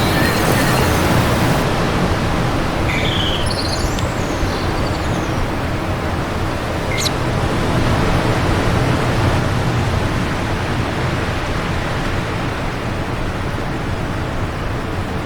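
Wind blowing steadily, a loud, even rushing, with a few short bird chirps in the first half.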